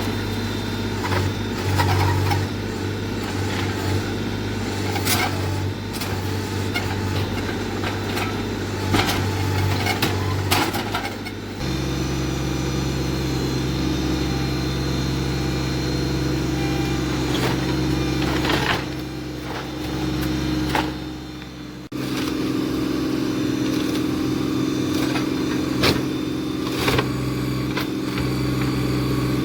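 Compact diesel tractor engine running steadily under work, with occasional sharp knocks and clanks. The engine note changes abruptly twice, about twelve and twenty-two seconds in.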